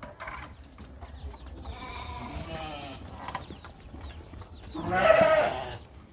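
Sheep bleating twice: a longer, quavering bleat about two seconds in, then a louder bleat of about a second near the end.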